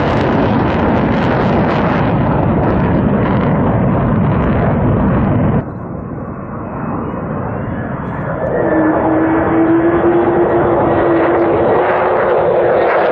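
F-35 Lightning II fighter jet's single F135 turbofan engine, a loud jet rush that cuts off abruptly about halfway through. Another jet then builds up louder, with a steady droning tone under the rush.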